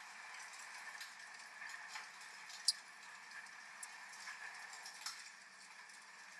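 Wood fire crackling with scattered small pops over a steady hiss of rain, with one sharp, much louder pop a little before the middle.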